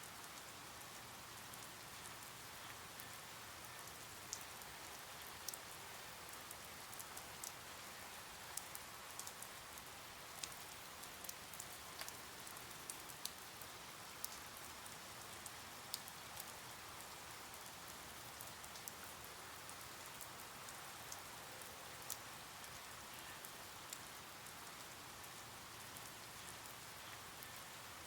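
Steady, faint rain, a soft even hiss with individual drops ticking sharply at random.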